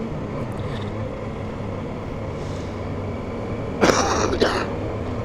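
BMW R1250GS boxer-twin engine and wind noise heard from inside the rider's helmet while cruising, a steady drone and rush. About four seconds in there is a brief, sharp noisy burst.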